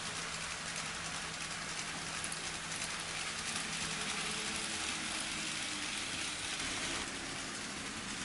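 N scale model trains running on the layout: a steady rush of small metal wheels on the rails with fine rapid clicking and a faint motor hum, the hiss easing slightly about seven seconds in.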